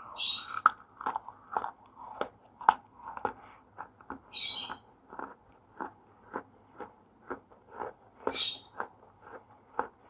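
Slate pencil being chewed close to the microphone: a steady run of crisp crunches, about two a second, with three brief brighter, hissier crunches spread through it.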